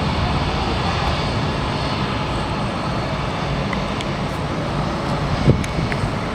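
Jet engines of an Airbus A320-family airliner at the airport, a steady, loud rushing noise. A brief thump about five and a half seconds in.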